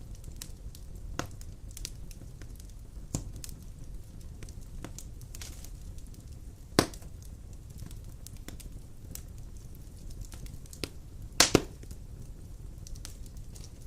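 Large wood logs burning in a fireplace: a steady low rumble of flame with scattered crackles and a few sharp pops, the loudest a single pop about halfway through and a quick double pop near the end.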